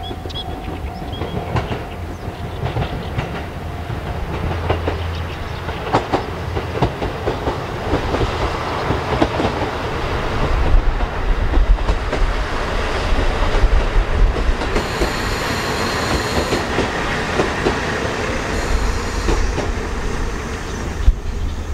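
E001 series Train Suite Shiki-shima running past at a distance: a steady rumble with the clatter of wheels over the rails. Brief high-pitched squeals come twice in the second half.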